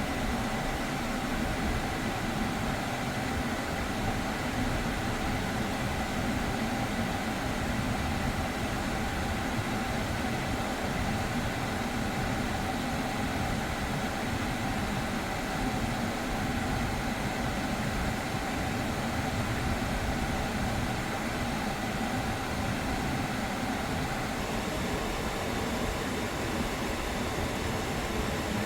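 LF Sonata LPG running with its air conditioning switched on: a steady, unchanging mechanical hum from the engine, AC compressor and blower fan, with a faint high whine, as the freshly recharged system cools properly.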